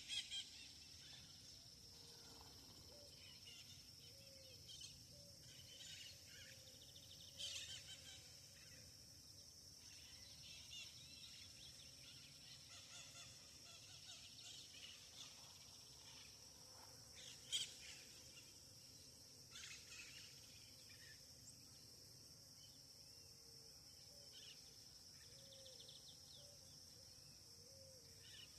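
Faint outdoor ambience at a river: birds calling now and then, with short sharp calls and a scattering of short low calls, over a steady high-pitched drone.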